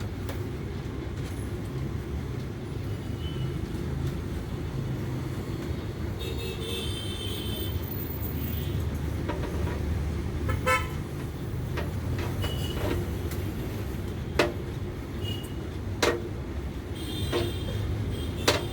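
Steady street traffic noise with vehicle horns tooting twice, and a few short sharp clicks in the second half.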